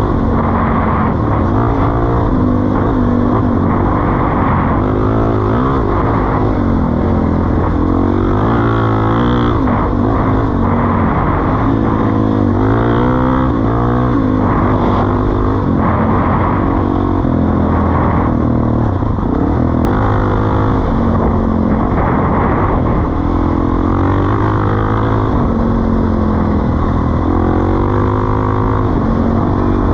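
Suzuki DR-Z400E's single-cylinder four-stroke engine running through a Pro Circuit T-4 exhaust, its pitch rising and falling repeatedly as the throttle is opened and closed.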